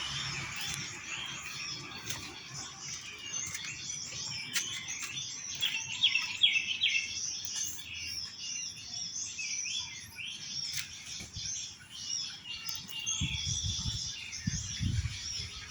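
Small birds chirping with many quick, high, overlapping call notes, busiest about six seconds in. A few dull low thumps come near the end.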